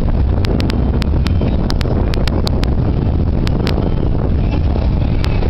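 Wind buffeting the microphone on a sailboat under way: a steady, dense low noise. Irregular sharp clicks sound a dozen or so times over it.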